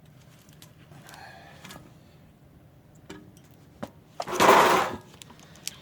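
Light clicks and knocks from handling brake caliper hardware, then a short, loud rush of noise lasting under a second about four seconds in.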